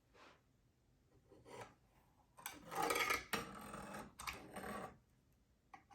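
Scraping and rubbing noises as painting supplies are handled: a few faint short scrapes, then two longer scraping stretches in the middle.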